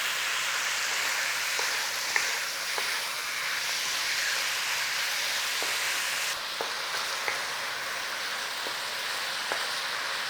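Cubes of chicken sizzling in hot oil in a frying pan, a steady hiss with a few faint clicks and pops; the hiss eases slightly about six seconds in.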